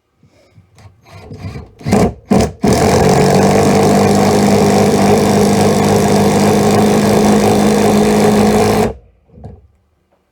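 Hart 20-volt cordless impact driver driving a 2.5-inch lag bolt into a wooden 4x4. Two short trigger blips come first, then about six seconds of steady hammering as the bolt is driven down. It stops suddenly near the end, with the bolt head pulled down recessed into the wood.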